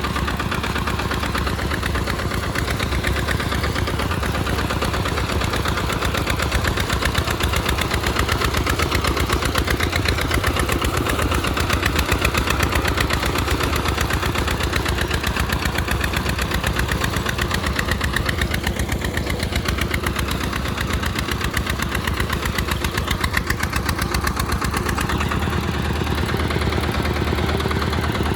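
Single-cylinder diesel engine (RT140 Plus) of a tractor running steadily while plowing in mud, with a rapid even chug of firing pulses. It grows slightly louder between about six and thirteen seconds in.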